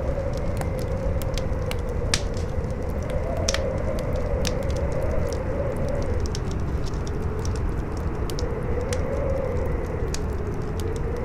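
Campfire crackling with frequent sharp pops, over strong howling wind. The wind carries a low rumble and a moaning tone that slowly rises and falls.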